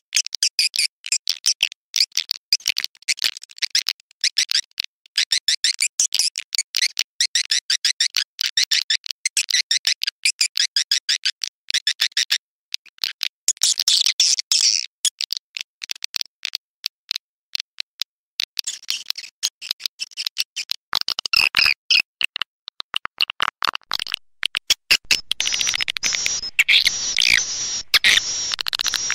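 Swiftlet call-sound lure recording: dense trains of rapid, high twittering chirps of swiftlets, the kind of call track played to draw swiftlets into a swiftlet house. About two-thirds of the way through, a fuller, denser layer of chirping joins in.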